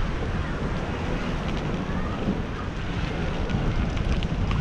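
Wind buffeting the microphone while riding, a steady low rumble with a few faint clicks scattered through it.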